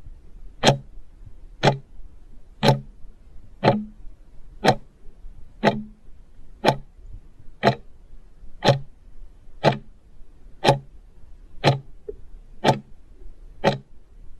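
Clock ticking, one sharp tick every second, steady and even, like a quiz answer timer.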